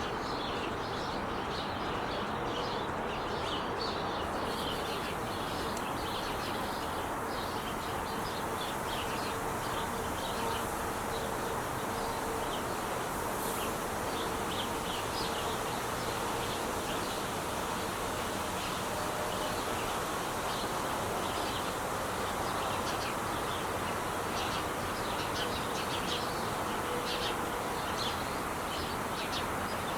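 Steady noise of traffic on the Interstate 5 freeway, with short, high chirps of small birds scattered over it.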